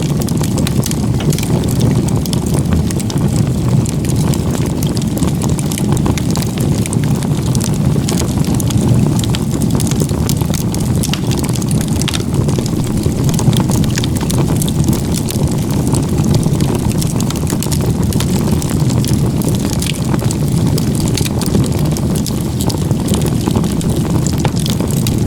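Wood fire burning hard in a crisscross log-cabin stack: a steady low rush of flame with frequent small crackles and pops from the firewood.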